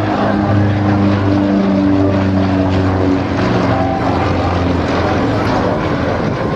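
Propeller-driven Yak aerobatic plane with a nine-cylinder radial engine, droning steadily as it flies.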